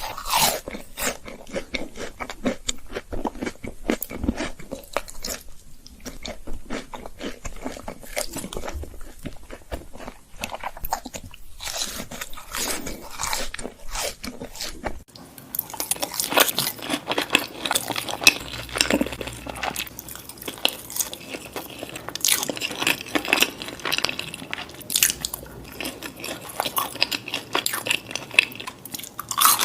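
Close-miked eating: biting and chewing crunchy food, a dense run of irregular crackles and crunches. About halfway through the crunching turns denser and brighter.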